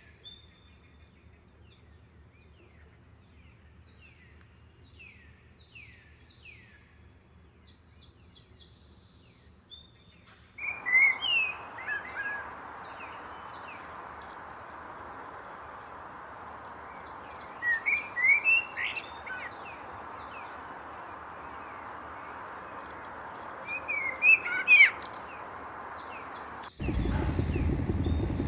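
Songbirds calling over a steady high insect drone, soft at first. About ten seconds in it cuts abruptly to the hiss of flowing water, with loud bird song in three bursts. Near the end it cuts again to a loud low rumble.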